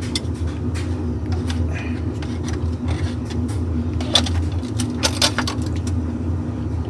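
A steady low hum, with a few sharp metallic clinks of hand tools on the oil pan bolts about four and five seconds in.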